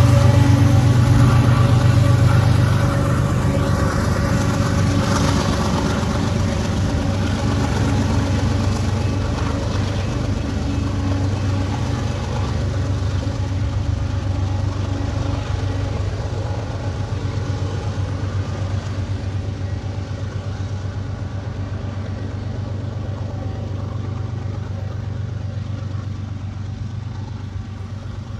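BNSF diesel locomotive engine running steadily under a freight train of covered hoppers, with a deep hum and rolling train noise, fading gradually as the train moves away.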